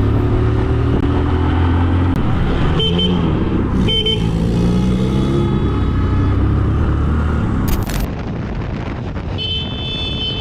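Road traffic: a vehicle engine running, its pitch rising and falling, with a horn sounding briefly about three and four seconds in and again near the end.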